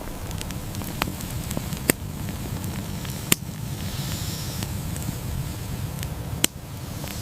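Fire crackling: a steady low noise with a few sharp pops and fainter ticks scattered through it.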